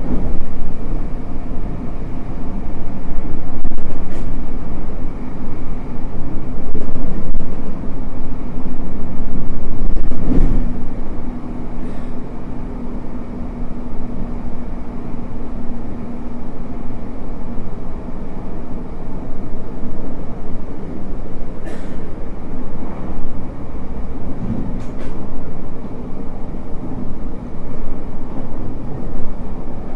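Running noise heard inside the passenger car of a JR Hokkaido 733 series electric train at speed: a steady rumble of wheels on rail, with a few sharp clicks and a low hum for several seconds near the middle.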